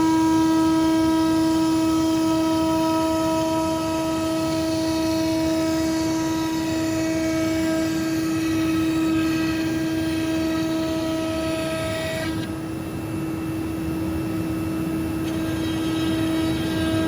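CNC router spindle running with a steady whine while the cutter mills plywood, over a hiss of cutting. About twelve seconds in, the high hiss and one of the tones drop away while the main whine carries on.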